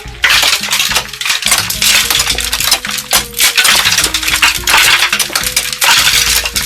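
Rapid, dense clinking and tapping over background music with held notes.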